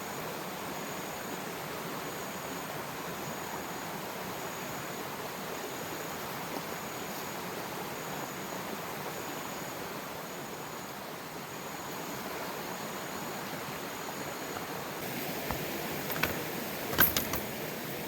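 Steady rushing noise of heavy rain and flowing river water, with a few sharp knocks near the end.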